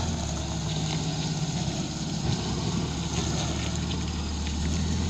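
Manitou telehandler's engine running steadily, a low hum, while the fertilizer is being sieved.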